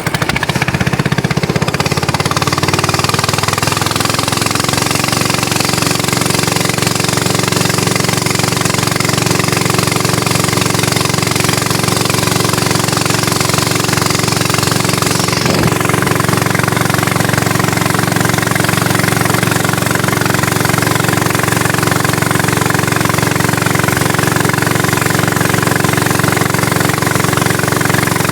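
Small engine running steadily at one speed, with a rapid, even firing pulse.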